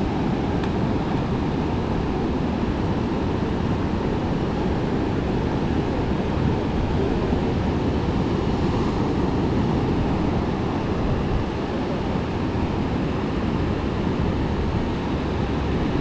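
Steady wind rumble on the microphone mixed with ocean surf washing ashore, an even low noise with no distinct events.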